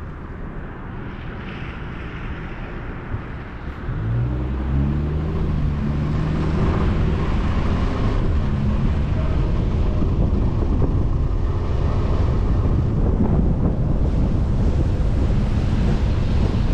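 Engine and road noise of a moving vehicle, heard from inside. About four seconds in the engine note rises and gets louder as the vehicle accelerates, then holds steady under a constant rush of tyre and road noise.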